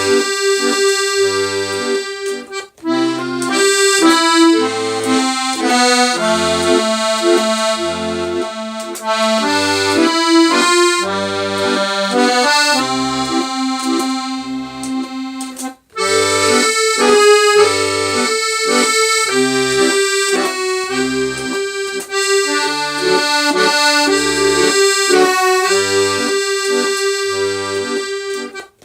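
Solo accordion playing a slow melody over a bass that alternates low notes and chords. The playing breaks off briefly about three seconds in and again about halfway through.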